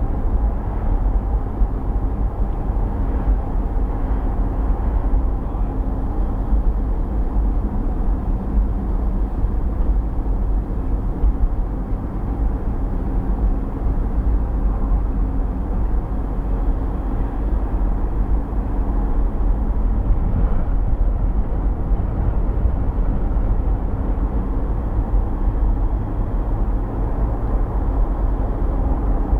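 Car being driven: a steady rumble of engine and tyre noise on the road, even throughout.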